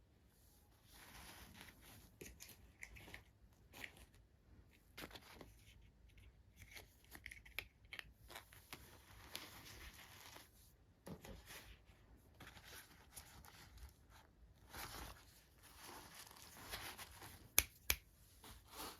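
Toy packaging being handled and torn open, faint intermittent rustling and tearing, with two sharp clicks near the end.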